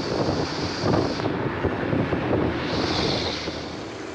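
Road traffic noise with wind buffeting the microphone: a steady, rough rumble.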